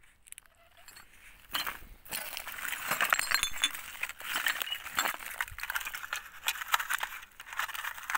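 Small pieces of scrap metal clinking and clattering against each other as they are handled and gathered up, starting about a second and a half in and going on as a dense run of sharp clinks.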